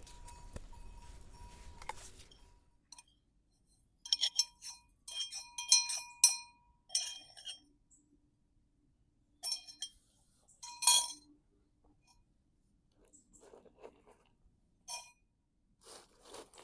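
Scattered clinks and rattles of hard objects knocking together, several with a short bright ring, in bunches with quiet gaps between.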